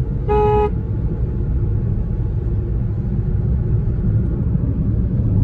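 Steady low rumble of a vehicle moving along the road, with a single short beep about half a second in.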